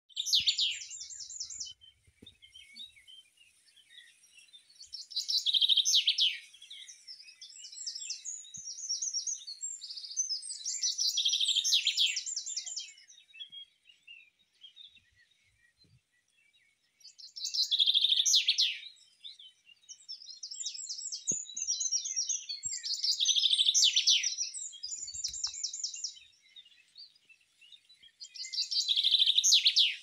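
Songbirds singing at dawn: high trilled song phrases a second or two long, repeating every few seconds with short pauses between.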